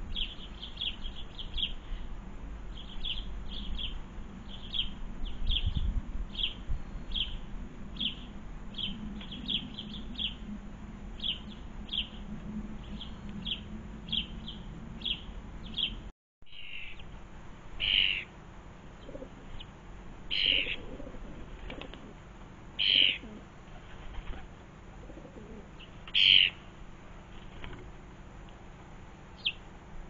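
Small garden birds chirping. First comes a quick run of short high chirps, several a second. After a sudden break about halfway, a few louder single calls follow, every two to three seconds.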